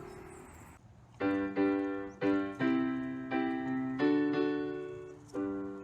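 Piano or keyboard playing a short run of struck chords, about six of them, starting about a second in, each left to ring and fade: an instrumental lead-in to a children's song.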